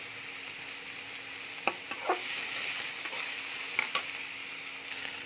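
Sliced onions and green chillies sizzling in oil in a kadhai as they fry soft, with a metal spatula scraping and clicking against the pan several times as they are stirred.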